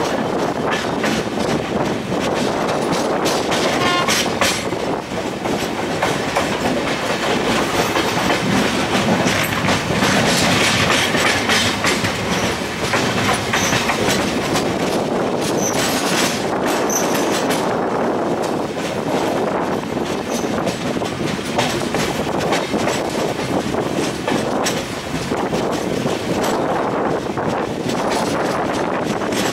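Passenger train coach running at speed: a steady rumble of wheels on the track, with clickety-clack over rail joints.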